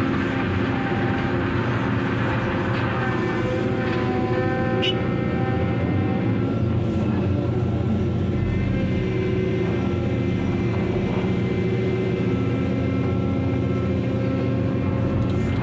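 Heavy diesel machinery running steadily during stone cargo discharge, with a constant low engine drone throughout and a short sharp tick about five seconds in.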